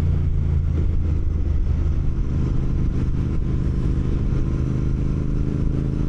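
Motorcycle engine running steadily, its pitch holding even with no revving.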